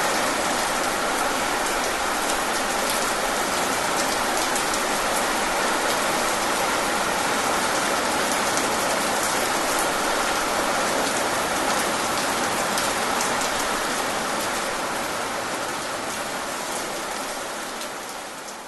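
Steady rain falling, with a dense hiss of many small drop ticks; it slowly fades out over the last few seconds.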